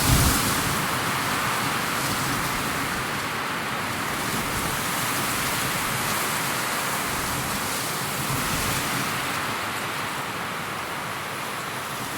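Steady rushing nature ambience, an even wash of noise with no distinct calls, and a brief low thump right at the start.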